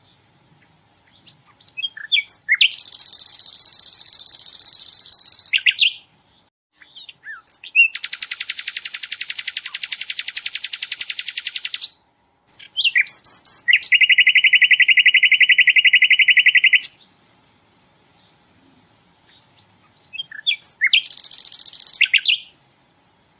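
A sikatan londo (flycatcher) sings four long, very fast trills, the 'tembakan' bursts prized in birdsong training recordings. Each trill is led by a few short chirps. The second trill is the longest and buzziest, and the third is lower-pitched.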